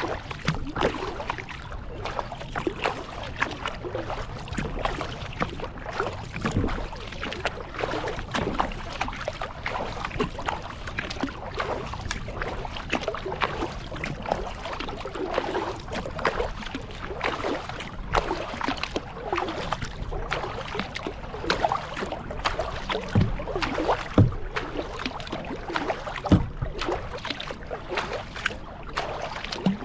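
Kayak paddling: the paddle blades dip and pull through the water in a continuous run of small splashes and drips. A few low thumps come in the second half.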